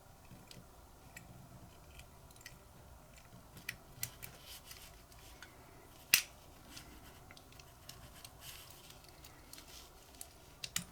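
Small scattered clicks and taps of tiny metal lighter parts being handled during reassembly, with one sharper click about six seconds in and a few quick clicks near the end.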